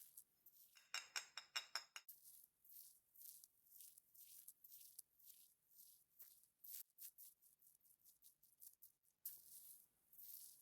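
Faint close-up makeup-application sounds: soft, high swishing strokes repeating about twice a second, with a quick run of light clicks and rattles about a second in and a flurry of small ticks near the middle.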